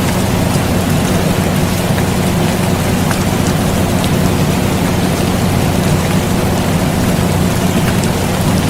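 Air conditioner running with a steady low hum, mixed with steady rain hiss and a few scattered drop ticks.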